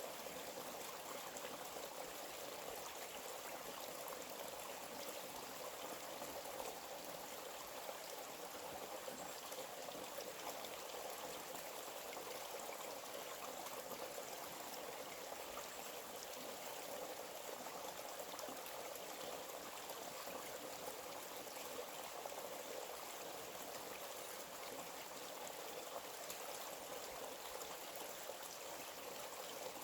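A small stream flowing steadily, an even rushing and trickling of water.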